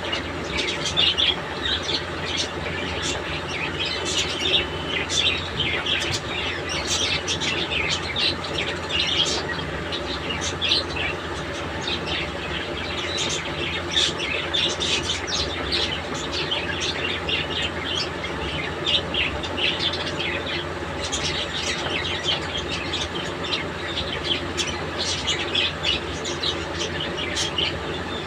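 A group of budgerigars chirping and chattering continuously, many quick high chirps overlapping, over a steady low hum.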